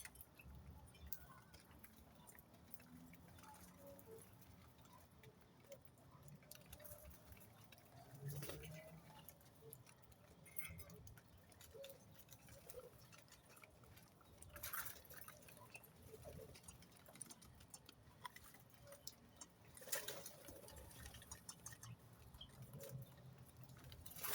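Near silence, with faint scattered clicks and short soft rustles, a few a little louder about eight, fifteen and twenty seconds in.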